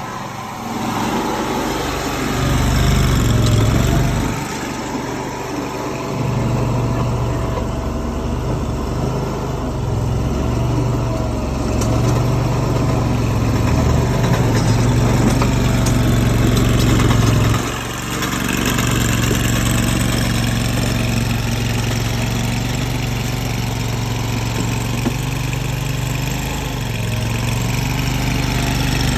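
Mini tracked skid steer's engine running steadily as the machine works, its hum rising and falling with the load and dipping briefly twice.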